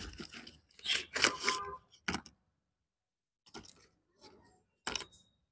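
Chewing slate pencil close to the microphone: a quick run of crisp crunches over the first two seconds, a short pause, then a few sharp isolated crunches and clicks near the end.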